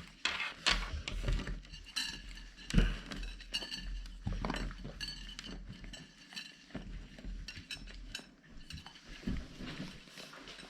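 A bowl clinking and knocking irregularly as a Siberian Husky eats from it, with the loudest knocks in the first half.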